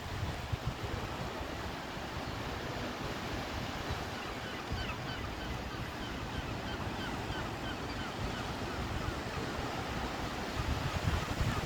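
Surf washing ashore with wind buffeting the microphone. From about four seconds in, a run of short, quick, repeated calls from gulls sounds over the surf.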